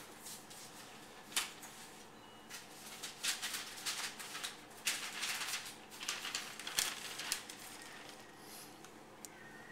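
Freshly sharpened folding-knife edge slicing through paper in a series of short, hissy cutting strokes, a sharpness test after the 1000 grit waterstone.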